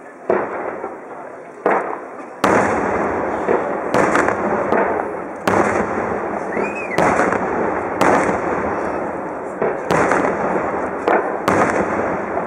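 Aerial firework shells bursting one after another, sharp bangs coming at irregular gaps of about a second or less. A steady wash of noise fills the gaps from about two seconds in, and a brief whistle rises and falls near the middle.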